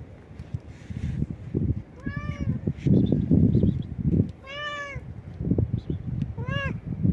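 A stray cat meowing loudly three times, each meow rising and then falling in pitch. A loud low rumble comes between the first and second meow.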